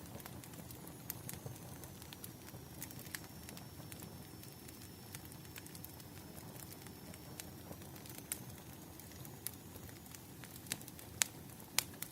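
Wood fire crackling, with irregular sharp pops and snaps over a soft steady low rumble.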